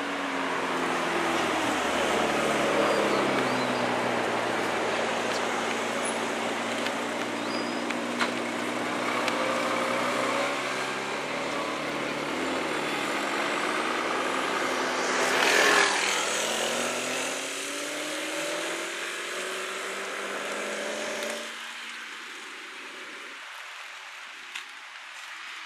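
Supercar engines accelerating and driving past: a McLaren 12C's twin-turbo V8 and a Bentley Continental convertible, their pitch rising and falling as they rev through the gears. There is a sharp, loud burst about two-thirds of the way through, and the engines fade away near the end.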